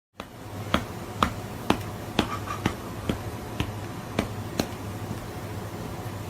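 A run of about nine short, sharp clicks, roughly two a second, over a steady low hum.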